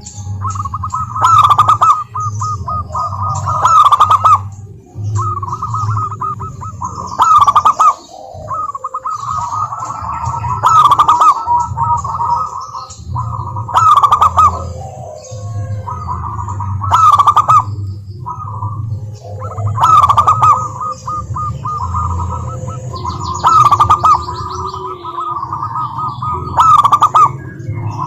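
Zebra dove (perkutut) singing its rapid, stuttering cooing song, with a loud trilled phrase about every three seconds and softer cooing in between.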